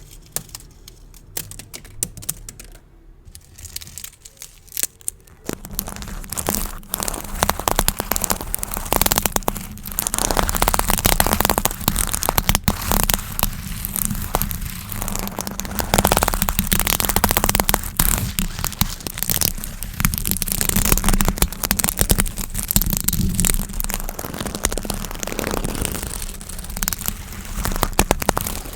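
Gift bows being handled and squeezed close to the microphone, crinkling and crackling. It is quiet with a few scattered clicks at first, then goes into dense, steady crinkling from about five seconds in.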